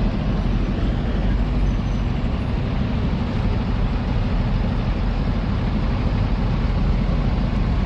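Steady low rumble of a heavy truck's diesel engine running as it moves the bridge girder forward, with no distinct bangs or changes.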